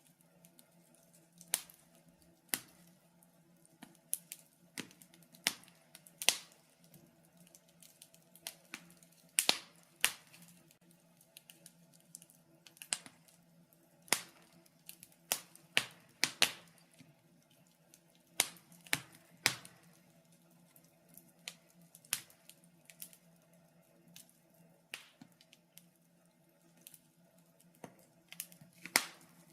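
Wood burning in a fireplace, crackling with irregular sharp pops and snaps about one or two a second, a few much louder than the rest, over a faint steady hum.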